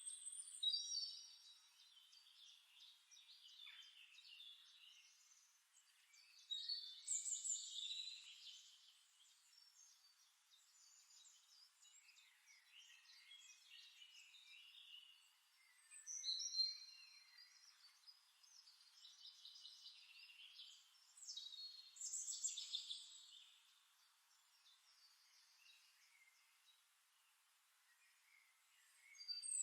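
Songbirds singing and chirping faintly, in short high phrases of chirps and trills that come in louder bursts every six to nine seconds.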